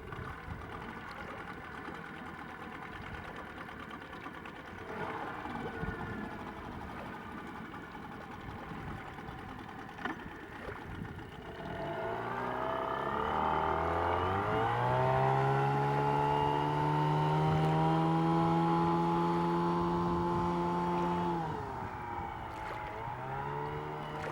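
Yamaha 6 CMHS two-cylinder two-stroke outboard pushing a boat along: it runs at low speed under water and wind noise, then about halfway through its pitch climbs as it is opened up to full throttle. It holds a steady high note for several seconds, then drops back as the throttle is eased off near the end.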